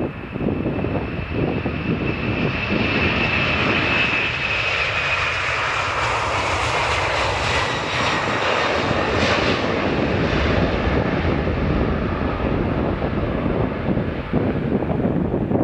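Jet airliner passing close by, its engine noise swelling to a peak about halfway through and then fading, with a high whine that slowly falls in pitch as it goes past. Wind buffets the microphone underneath.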